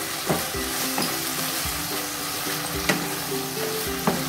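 Water spinach sizzling as it is stir-fried in a nonstick wok, a spatula scraping and tossing it, with a few sharp knocks of the spatula against the pan.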